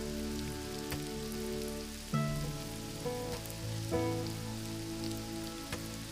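Soft, slow background music with sustained chords changing every second or so, over a steady hiss of rain with scattered drips.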